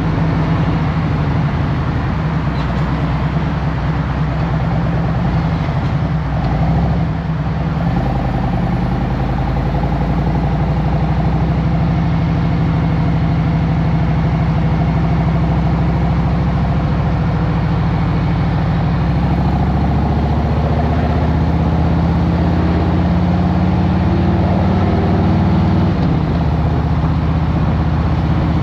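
Harley-Davidson Road Glide Special's Milwaukee-Eight 114 V-twin engine running at low revs in traffic, with the engine note shifting a little about seven seconds in, climbing slowly from about twenty seconds in and dropping back near the end.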